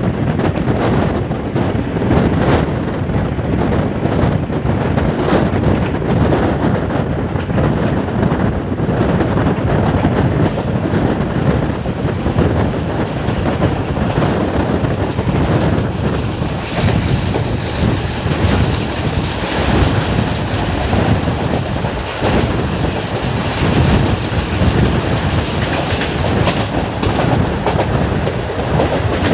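Indian Railways passenger coach running at speed: a steady low rumble of wheels on rails, with irregular sharp clicks and clatter as the wheels pass over the track.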